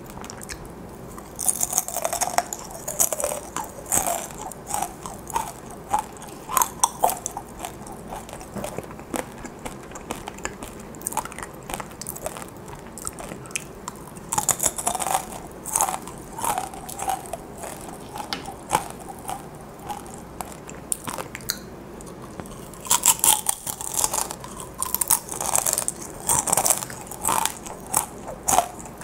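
Crisp crunching and chewing of fried, sugar-coated dried chili pepper chips (gochu-twigak), with sharp crackling bites coming in three spells: near the start, about halfway through, and near the end, and softer chewing between.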